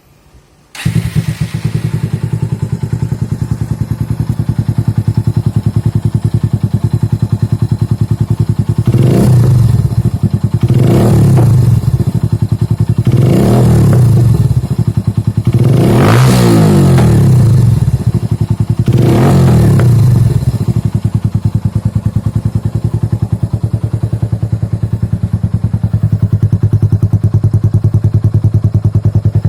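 Kawasaki W175's single-cylinder engine through an aftermarket Sniper double-silencer exhaust, with a deep, solid bass note. It comes in suddenly about a second in, idles, is blipped five times a couple of seconds apart, each rev rising and falling, then settles back to idle.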